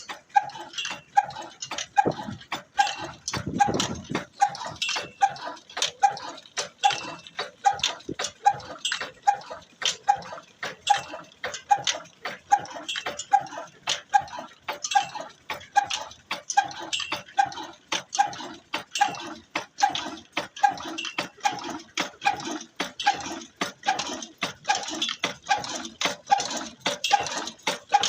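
Old Ruston stationary engine driving a tubewell pump, running with a slow, even beat of sharp knocks, just under two a second.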